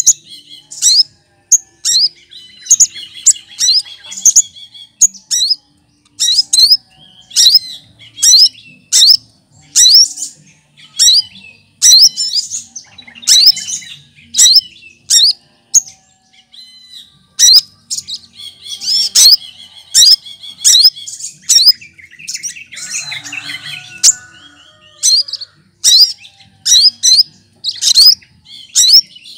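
Cucak kinoy singing: a run of sharp, high, down-slurred calls about one or two a second, broken by short warbled phrases and a brief pause near the middle. The song mixes in imitations of other birds.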